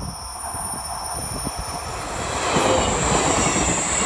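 Roslagsbanan narrow-gauge electric commuter train (an X10p unit with trailer cars) approaching and passing close, growing louder, its wheels clattering over the track with a thin high squeal over the top.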